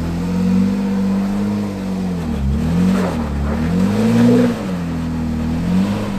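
Jeep engine revving up and down, its pitch rising and falling several times in quick swells as the throttle is worked.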